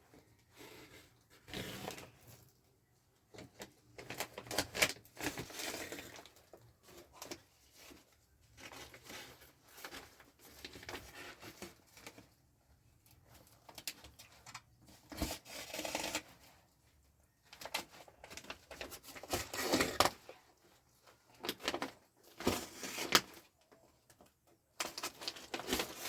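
Plastic bags rustling and crinkling in irregular bursts as they are handled.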